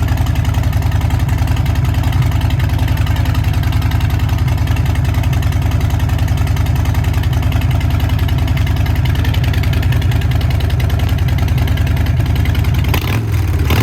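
Harley-Davidson Fat Boy's Milwaukee-Eight 114 V-twin idling steadily through an aftermarket Big Radius exhaust, a loud, even low rumble. About a second before the end the sound dips and shifts briefly.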